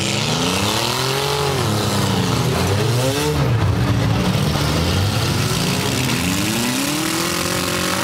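Demolition derby cars' engines revving, several at once, their pitch rising and falling over and over.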